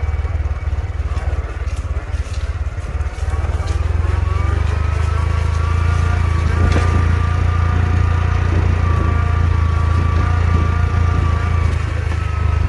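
Honda Trail 125's single-cylinder engine running under way, its note rising about four seconds in and then holding steady, over a constant low wind rumble.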